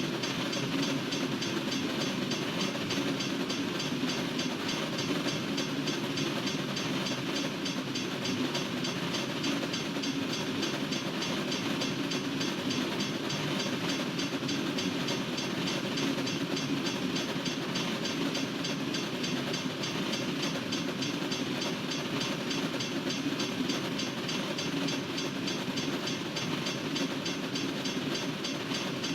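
Freight train cars rolling steadily past a railroad crossing, a continuous, even noise of wheels on rail that neither builds nor fades.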